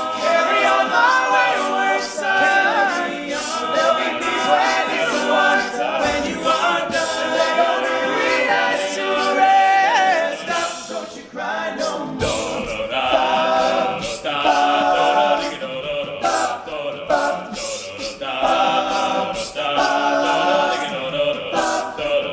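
Male a cappella group singing in harmony, a wordless stretch of the arrangement over a steady percussive beat.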